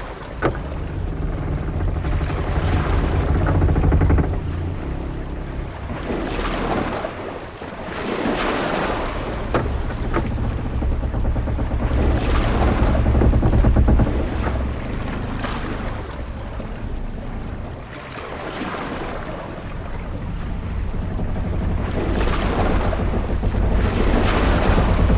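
Ship-at-sea ambience: waves washing and wind, with a deep rumble, swelling and easing every few seconds.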